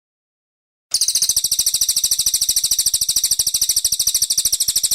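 Brown cililin bird singing: a loud, high-pitched trill of rapidly repeated notes, about a dozen a second, starting abruptly about a second in.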